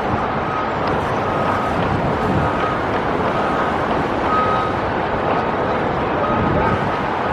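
Strong wind buffeting the microphone in a steady rushing roar. Through it, a construction vehicle's reversing alarm sounds short high beeps at uneven intervals.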